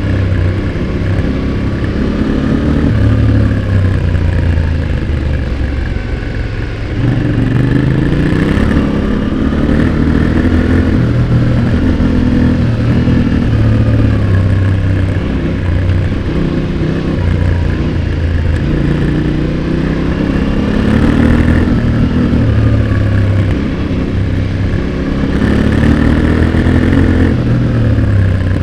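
Yamaha Ténéré 700's parallel-twin engine heard close at the exhaust while ridden hard, revs repeatedly rising and falling with throttle and gear changes. There is a brief drop off the throttle about seven seconds in.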